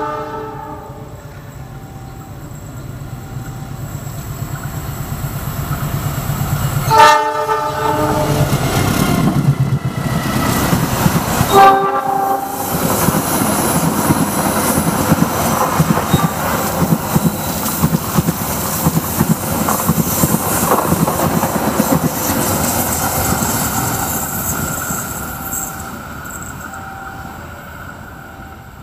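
Passenger train approaching and passing close by: its horn sounds in two short blasts about 7 and 12 seconds in, then the wheels clatter steadily over the rail joints before the sound fades away.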